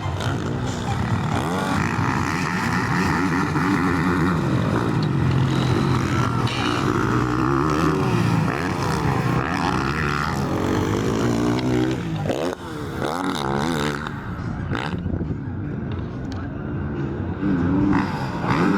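Several motocross motorcycle engines running and revving, their pitch rising and falling as the bikes race, with a brief drop in loudness about two-thirds of the way through.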